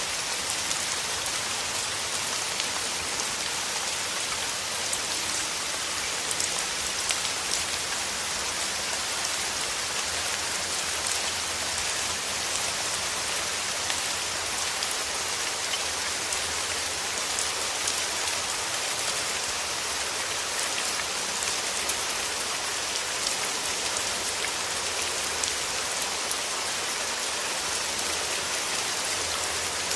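Steady rain: a dense, even hiss of falling drops with fine ticks of single drops through it, holding at the same level throughout.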